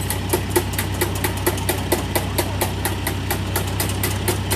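Komatsu D85-21 bulldozer diesel engine running at idle: a steady low hum with an even, rapid knocking of about four or five beats a second.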